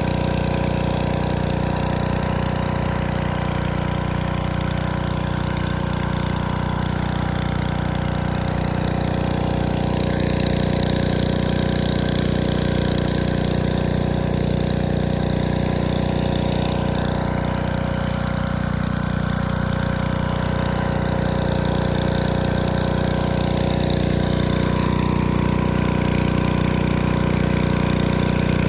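Gas pressure washer engine running steadily under load, with the hiss of high-pressure water spraying from a 16-inch rotary surface cleaner onto concrete.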